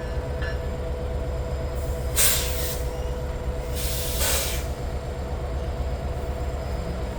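CPKC Holiday Train stopping, a steady low rumble with a held tone under it, and two sharp blasts of air-brake hiss, about two and four seconds in.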